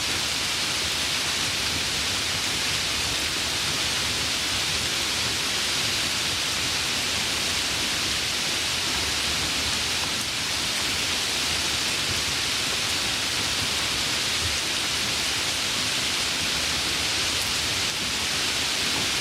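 Steady heavy rain, an even hiss with no distinct drops or thunder.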